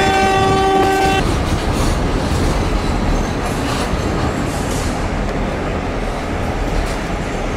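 Kuranda Scenic Railway train heard from aboard a carriage: a horn sounds on one steady pitch and cuts off about a second in, then the carriage's running rumble and wheel noise carry on steadily.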